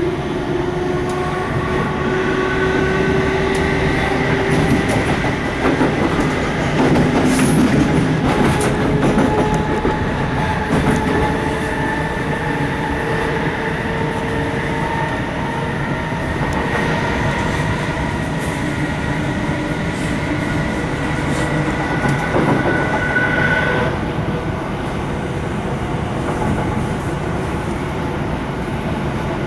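Interior of a Class 455 electric multiple unit running at speed: steady wheel-on-rail rumble with a whine of several tones from the traction equipment, one rising slightly in the first few seconds, with the higher tones stopping about three quarters of the way through. A few clicks from the wheels passing over rail joints or points come several seconds in.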